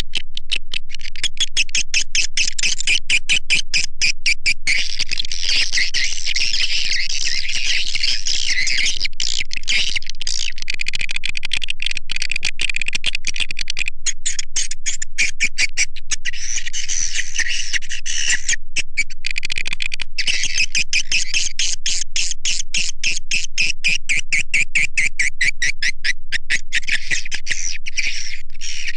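Recorded calls of edible-nest swiftlets: dense, continuous, high-pitched rapid twittering and clicking, with a brief break a little past halfway. It is a swiftlet lure call, played in swiftlet houses to draw the birds in.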